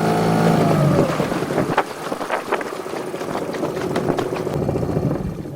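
Small-boat outboard motor running steadily, then throttled back about a second in, its pitch dropping away. Scattered light knocks and water noise follow.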